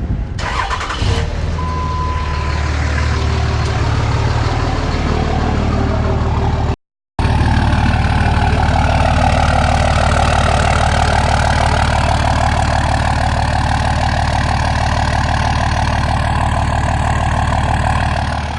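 2005 Dodge Cummins 5.9-litre turbo-diesel straight-six running steadily through a 5-inch turbo-back straight-pipe exhaust with no catalytic converter or muffler. The sound cuts out for an instant about seven seconds in, then carries on.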